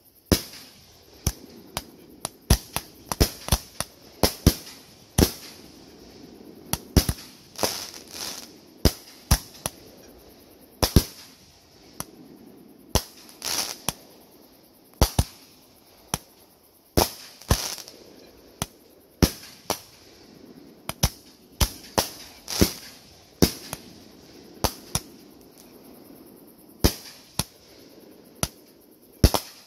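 Aerial fireworks bursting overhead: a long, irregular run of sharp bangs, about one or two a second, some coming in quick pairs.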